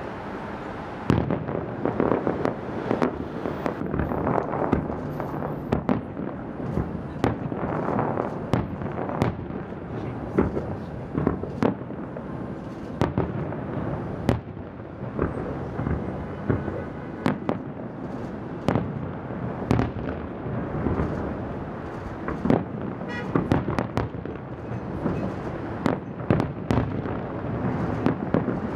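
Aerial fireworks show: shells bursting in many sharp bangs, one or two a second, over a continuous crackle.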